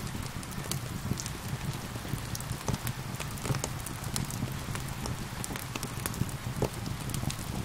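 Wood fire crackling with irregular sharp pops, over a steady hiss of gentle rain and a low rumble.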